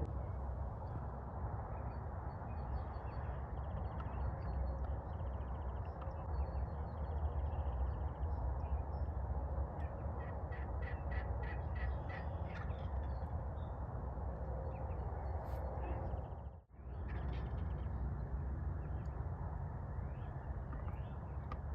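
Steady low rumble of wind on the microphone, with a run of faint distant bird calls in the middle. The sound drops out for a moment near the end.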